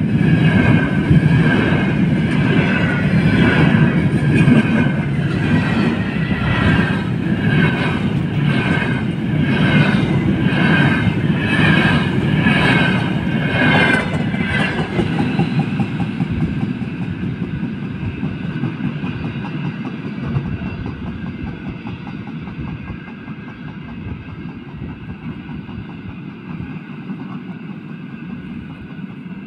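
Freight train wagons rolling past at speed, the wheels clattering over rail joints in a steady rhythm over a heavy rumble and a whine. About fifteen seconds in the last wagons go by, and the sound fades away as the train recedes.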